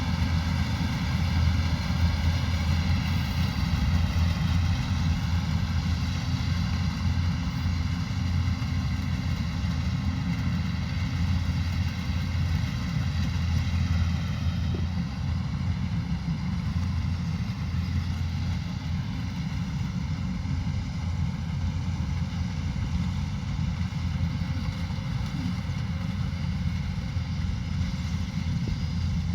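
Kubota combine harvester running steadily: a deep engine drone with a high machine whine on top that wavers slightly in pitch a couple of times.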